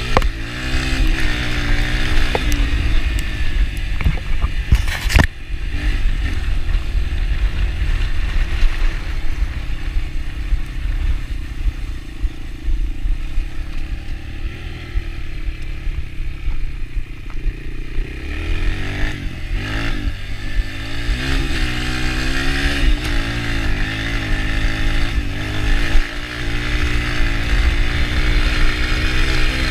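Yamaha TT-R125 dirt bike's single-cylinder four-stroke engine running under way, revs rising and falling with the throttle, easing off through the middle and picking up again later. A sharp knock about five seconds in.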